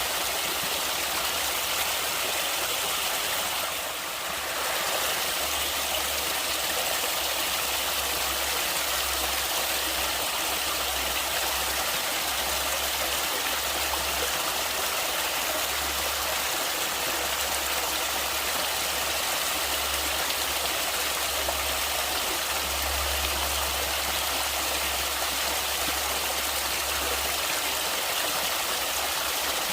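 Flowing stream water rushing steadily, an even, constant hiss that dips briefly about four seconds in.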